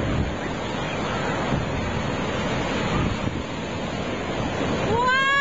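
Ocean surf washing up the beach, a steady rushing with wind buffeting the microphone. Near the end a high-pitched voice starts one long call.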